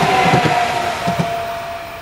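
ICE high-speed train passing, its wheels clattering over the rails under a steady whine that sinks slightly in pitch. The sound fades as the train moves away.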